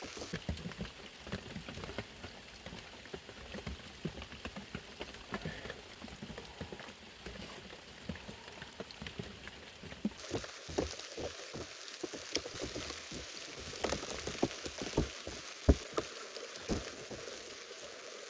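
Heavy rain falling on a surface, a steady hiss scattered with irregular sharp drops and ticks; the hiss grows stronger about ten seconds in, and a few louder knocks stand out near the end.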